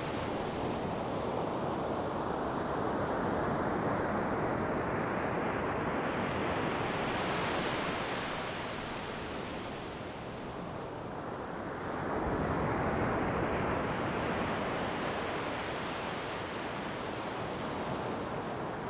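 Sea waves breaking and washing up the shore, a steady hiss that swells with each new wave every several seconds.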